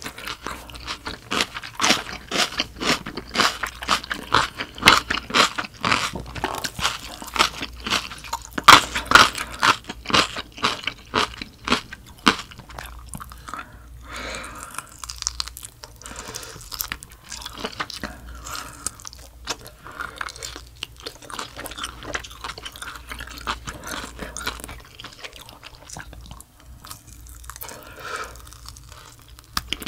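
Close-miked chewing of a mouthful of spicy noodles with young-radish kimchi: dense, crisp crunching for about the first twelve seconds, then softer, quieter chewing.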